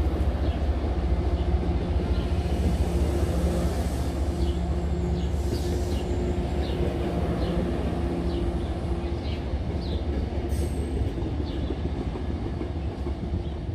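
MBTA commuter rail bilevel coaches rolling past: a steady low rumble of steel wheels on the rails with light scattered clicking, gradually fading as the rear cab car goes by.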